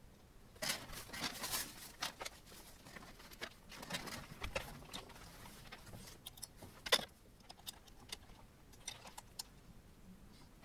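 Scattered clicks, taps and rustling as small 3D printer parts and cables are handled during assembly, with one sharper click about seven seconds in.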